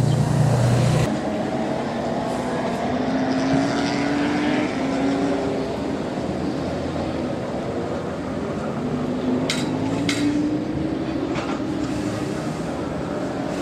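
Sports car engine running at low revs, its note slowly rising and falling twice, over a busy background of voices. A loud low hum cuts off abruptly about a second in, and there are a couple of short sharp sounds around ten seconds in.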